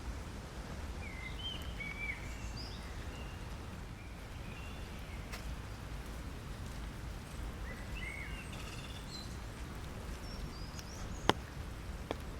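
Steady rain noise with songbirds chirping in short phrases twice, then a single sharp drop striking the umbrella late on, followed by a softer one.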